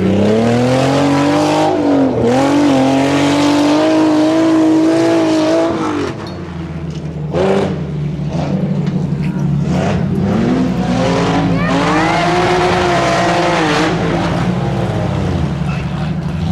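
A Tuff Truck's engine revving hard on the obstacle course, its pitch climbing and dipping with the throttle. About six seconds in it drops back to a low, steady drone, with one brief loud surge, then it revs up and down again before settling.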